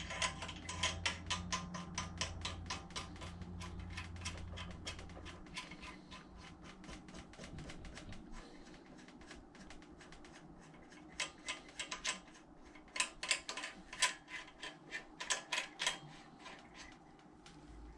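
Light, irregular metallic clicking and ticking of small valve-train parts being handled and fitted as the rocker arm adjusters go onto a Predator 212 engine's cylinder head, with louder clusters of clicks in the second half. A low hum runs underneath and stops about five seconds in.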